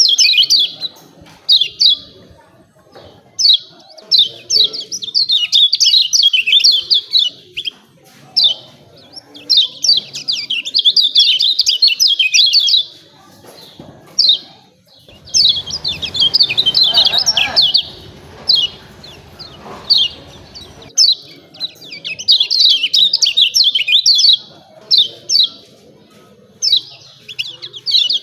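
Kecial kuning white-eyes giving rapid, high chattering 'ciak ciak' calls in repeated bursts of a few seconds each, with short gaps between. For several seconds in the middle a low rumbling noise sits under the calls.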